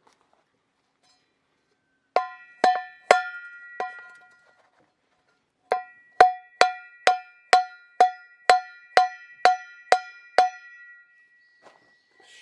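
A metal object struck over and over, each blow leaving a short ring on the same pitch: four blows, a pause, then about eleven steady blows at roughly two a second.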